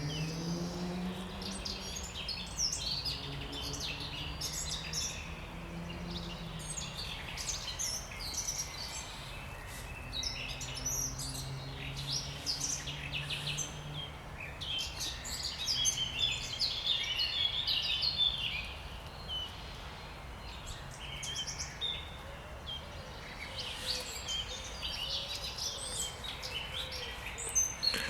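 Several wild birds singing and calling at once, a dense overlapping chorus of chirps and trills. A faint low hum runs underneath through roughly the first half.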